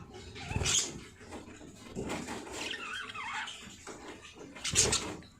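Baby birds calling in falling, squawky chirps through the middle, with two sharp knocks from handling about a second in and near the end, the second one the loudest.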